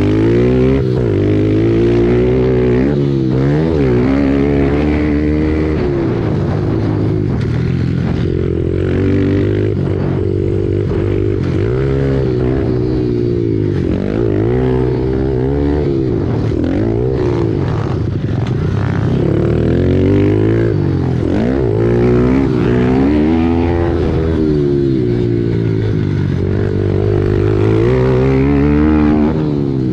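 Pit bike engine racing hard, its pitch climbing as the throttle opens and dropping back again and again, every few seconds, as the bike goes through the corners and jumps of the track. One engine is loud and close.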